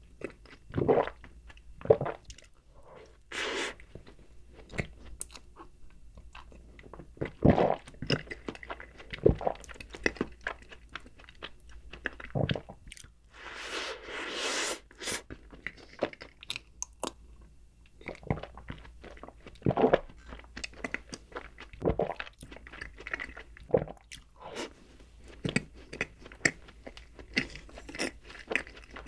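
Close-miked eating sounds: biting and chewing a chocolate cookie with a cream filling, with sharp crunches and mouth clicks and a longer crunching bite about halfway through.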